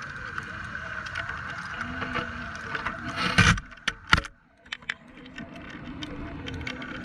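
Underwater sound from a camera lowered beside a fishing boat: a steady boat hum with scattered sharp clicks. About three and a half seconds in comes a loud rushing burst and a sharp knock, then a brief drop to near quiet before the hum returns.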